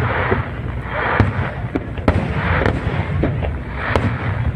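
A fireworks display: aerial shells bursting with sharp bangs about a second apart, several followed by a short hissing crackle, over a continuous low rumble.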